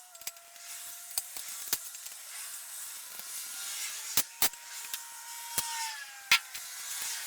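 Tools and metal parts being handled: a string of sharp clicks and knocks, loudest in the second half, over a steady hiss with a faint whine.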